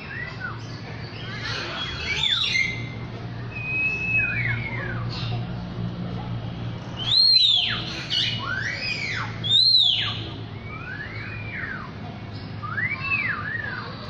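A bird singing a series of clear whistled notes, each rising and then falling in an arch. Two louder, higher notes come around the middle.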